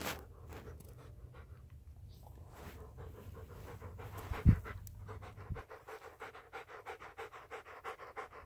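A shepherd dog panting fast and close, about four or five breaths a second, steadier and clearer in the second half. A single loud low thump about halfway through.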